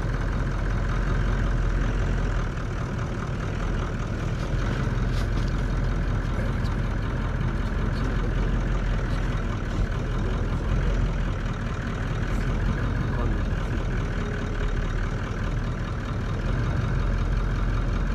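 Vehicle engine running steadily at idle, a continuous low rumble with a few faint ticks.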